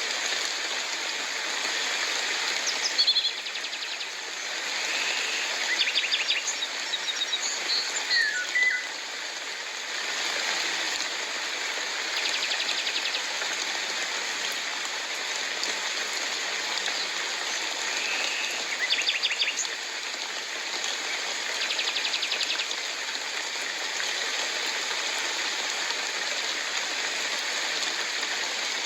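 Steady rain falling, with birds calling on and off: short chirps and whistled calls about 3, 6 to 9 and 19 seconds in, and fast trills near 12 and 22 seconds.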